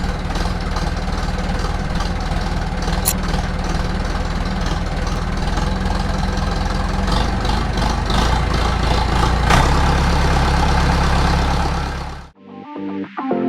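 Engine running steadily at idle with a low, even beat and occasional clicks, cutting off suddenly near the end.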